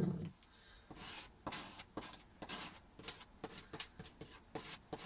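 Dowels being pushed into place in holes in a camper floor: a string of light taps and clicks with short rubbing sounds between them.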